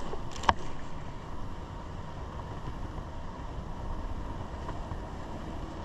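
Wind buffeting the microphone over a steady outdoor rush of noise, with one sharp click about half a second in.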